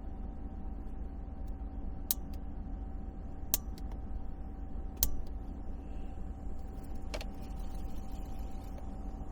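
Jeep engine idling with a steady low rumble and hum, heard from inside the cab, left running to thaw the fogged windows. A few sharp clicks break in, about every second and a half.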